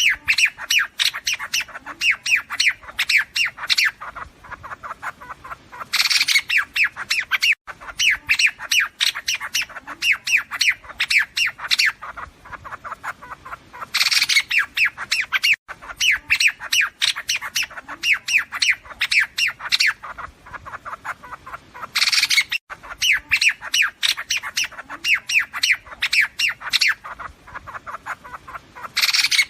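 Recorded calls of liếu điếu birds used as a trapping lure: a harsh squawk followed by a rapid run of chattering notes, about five or six a second, then fainter chatter. The same call sequence repeats about every eight seconds, as a looped recording.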